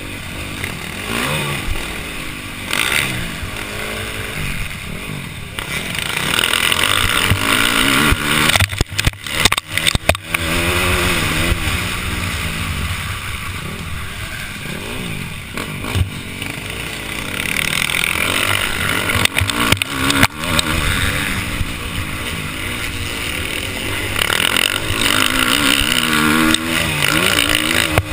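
Motocross dirt bike engine revving up and down repeatedly as the bike is ridden hard around a track, heard from a helmet-mounted camera with wind noise. The sound breaks up in sharp, brief dips about nine seconds in and again around twenty seconds.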